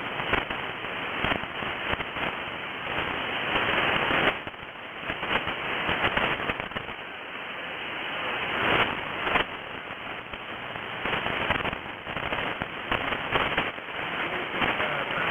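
Shortwave AM receiver putting out steady hiss broken by frequent, irregular crackling static crashes from nearby lightning, loud enough to bury a weak station's signal.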